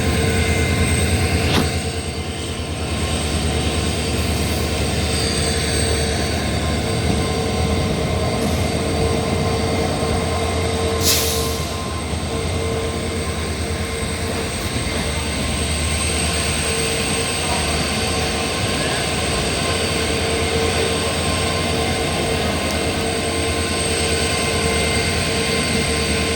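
Trains running into a station: a steady, loud locomotive and wagon rumble with a held high whine over it. A short hiss about eleven seconds in.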